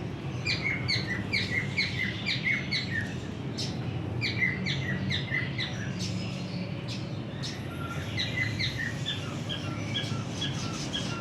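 Caged birds chirping: runs of short, quickly repeated chirps, about three a second, pausing briefly twice. A low steady hum runs underneath.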